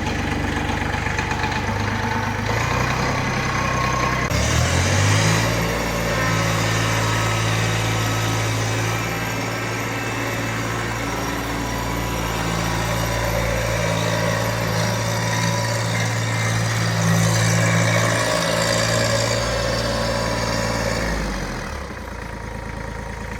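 Small tractor's engine running while it warms up after starting: its speed rises about four seconds in and holds steady, then drops back near the end.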